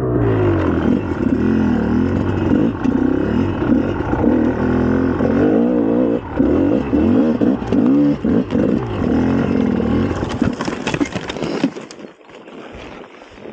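Two-stroke 300 cc single-cylinder engine of a GasGas EC300 dirt bike revving up and down repeatedly while being ridden, then dropping away sharply about 12 seconds in.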